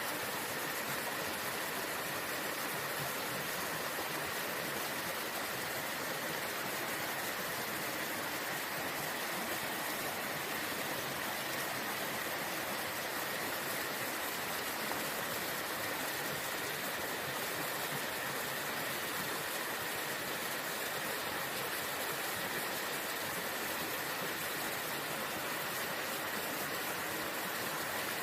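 Waterfall: water rushing steadily, with no change throughout.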